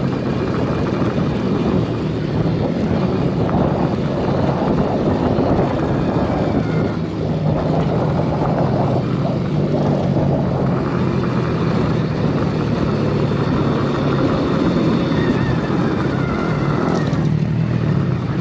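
Arctic Leopard XE Pro electric dirt bike being ridden on a trail: a steady rushing ride noise with a thin electric-motor whine that rises in pitch near the end.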